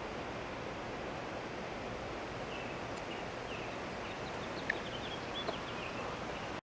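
Steady outdoor background hiss with small birds chirping faintly through the second half, and two sharp ticks near the end; the sound cuts off abruptly.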